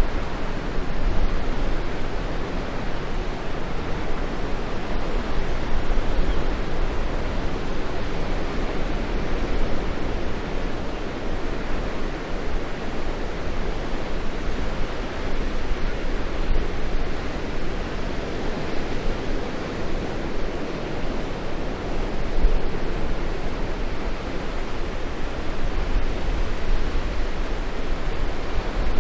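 Steady rushing of wind and water, with wind buffeting the microphone in a low rumble.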